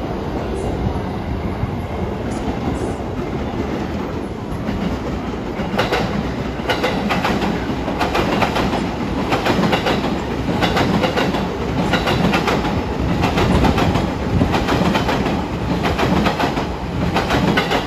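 JR East E233-0 series electric train pulling out at low speed: a steady rumble as the cars roll past, then from about six seconds in a repeated clickety-clack of wheels over rail joints and points, often in pairs.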